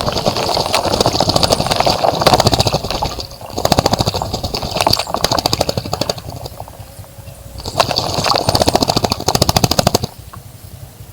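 A bird splashing in a bird bath, beating its wings rapidly in the water in three loud bouts of fast splashing with short pauses between.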